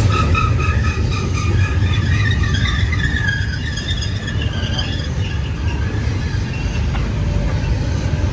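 Freight train rolling past close by: a steady low rumble of wheels and cars, with high-pitched wheel squeal that wavers and climbs in pitch during the first half, then fades.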